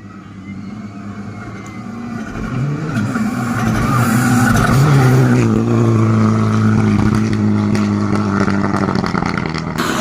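Rally car engine accelerating hard through the gears, its pitch climbing and dropping at each shift. It grows louder over the first four seconds as it approaches, then runs loud at high revs.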